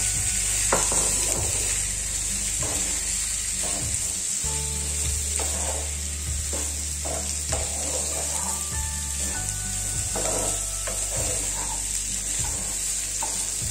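Diced boiled potatoes sizzling in hot oil in a kadhai. A wooden spatula stirs them, scraping and knocking against the pan about once a second.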